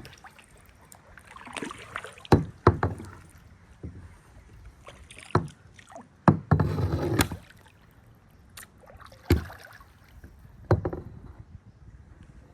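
Kayak paddling: paddle strokes dipping and splashing in the water, with several sharp knocks spread through and a longer splash a little past the middle.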